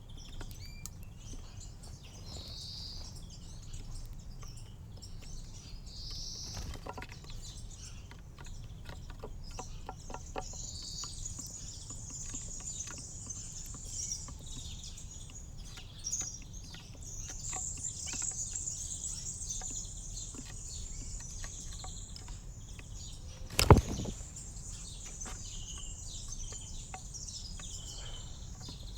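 Small songbirds chirping and twittering at a garden feeder, high-pitched calls coming and going over a steady low rumble, with scattered small ticks. About three-quarters of the way through, a single sharp knock stands out as the loudest sound.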